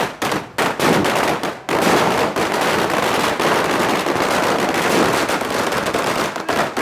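Firecrackers going off in rapid succession: a few separate sharp cracks at first, then a dense, unbroken crackle from about two seconds in.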